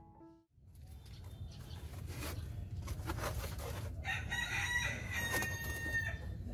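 A rooster crowing once: a single held call lasting about two seconds, starting about four seconds in, over a steady low background rumble.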